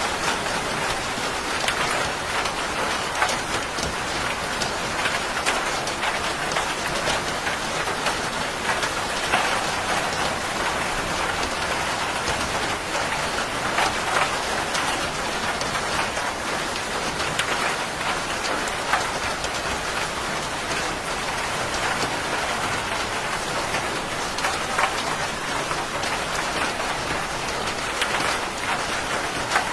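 Steady rain falling, with many close individual drops ticking on a surface over the even hiss of the downpour.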